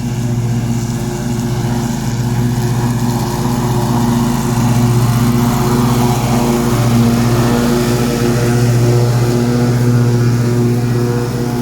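John Deere S160 lawn tractor's 24 hp engine running steadily at mowing speed with its 48-inch deck engaged, cutting grass.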